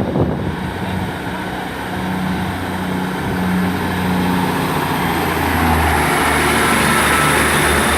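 Class 158 diesel multiple unit's engines running under power as the train pulls away from the platform, the sound building steadily louder.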